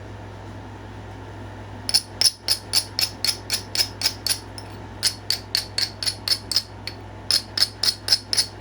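Quick rhythmic strokes of a knapping tool on the edge of a stone point being shaped, about five sharp clicks a second in three runs with short pauses between, starting about two seconds in.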